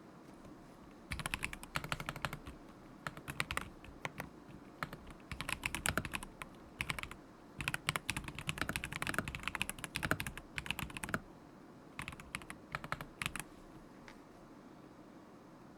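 Typing on a KZZI K75 Pro mechanical keyboard with Moment linear switches: quick runs of keystrokes broken by short pauses. The typing stops about two seconds before the end.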